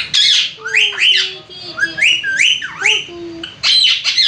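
Pet parrot whistling and squawking: a quick run of short, sharply rising high-pitched calls, with a few lower tones held under them.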